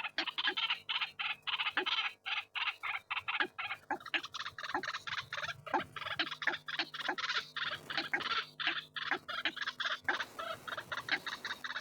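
White-breasted waterhens calling: a dense run of harsh, rapidly repeated notes, several a second, of the kind used as a lure call.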